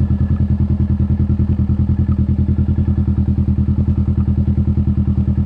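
Kawasaki Vulcan S 650's parallel-twin engine idling, an even pulse of about ten to eleven beats a second at a steady pitch.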